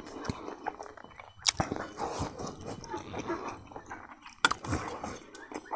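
Close-mic chewing of a mouthful of food, irregular and wet, with two sharp smacking clicks.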